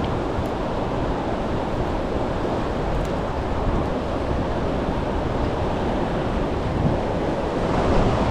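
Steady rush of fast river current below a dam spillway, with wind on the microphone.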